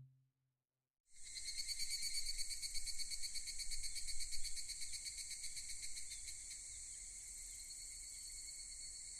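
Crickets chirping in a dense, steady, fast-pulsing chorus that starts about a second in, loudest for the first few seconds and then settling lower.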